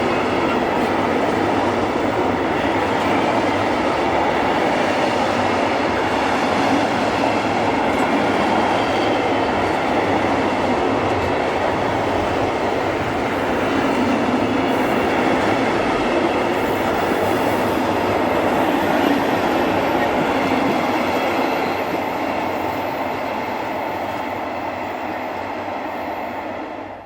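A train hauled by Class 37 diesel locomotives passing close by, with loud, steady noise of wheels running on the rails. The noise eases slightly near the end, then cuts off abruptly.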